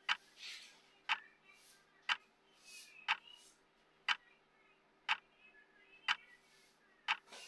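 Clock-style tick sound of a countdown timer, one sharp tick about every second, over a faint steady hum.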